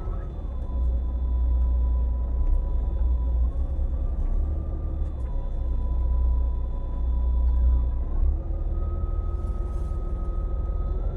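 A transfer boat's engine running under a heavy low rumble, its pitch stepping down and up several times as the throttle is worked during the approach alongside a tanker.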